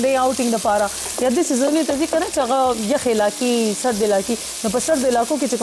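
Food sizzling in hot oil in two pans on a gas hob, stirred with wooden spoons, with light crackling throughout.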